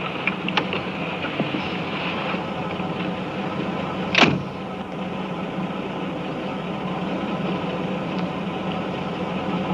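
A car engine idling steadily, with one short, sharp sound about four seconds in.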